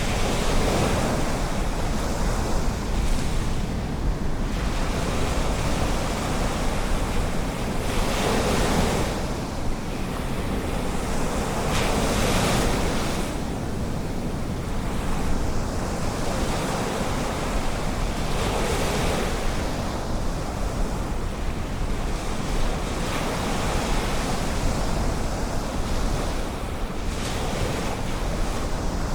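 Ocean surf breaking and washing ashore, rising in a surge every few seconds, over a steady low rumble of wind on the microphone.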